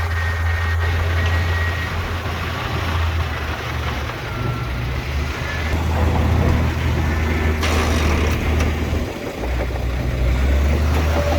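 Heavy diesel earthmoving machinery running: a loud, steady low engine rumble from a bulldozer and dump trucks at work. A short hiss comes about eight seconds in.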